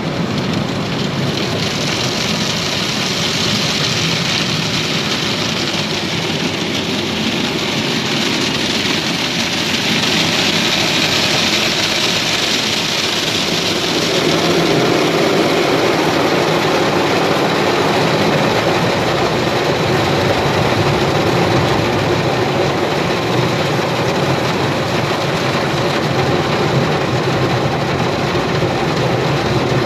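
Automatic car wash machinery working over the car during the wash stage, heard from inside the car: a steady rushing of water and wash gear. About halfway through, the sound shifts lower and a little louder.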